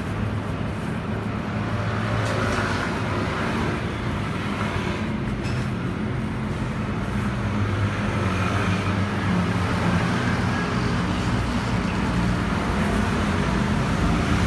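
A motor vehicle engine running steadily, getting a little louder about halfway through.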